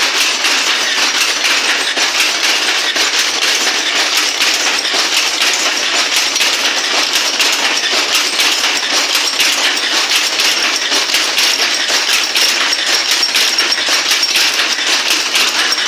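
Weaving looms running steadily, a dense, unbroken clatter of rapid metallic clacks and knocks.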